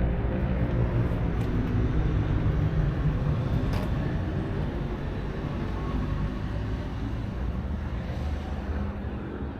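A vehicle engine running steadily as a low rumble, easing off slightly toward the end.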